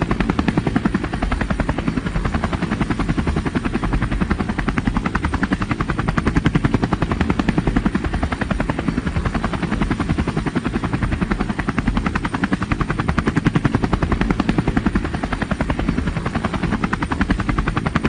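Helicopter rotor sound: a fast, steady chop that keeps up without a break, swelling slightly in loudness now and then.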